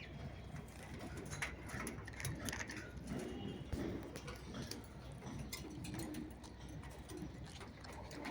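Parrots making soft, low, cooing calls, with scattered clicks and taps as they eat and hop about, and a few brief high chirps about three seconds in.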